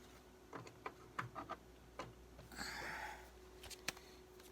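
Faint clicks and taps of plastic CD cases and packaging being handled, with a brief rustle about two and a half seconds in.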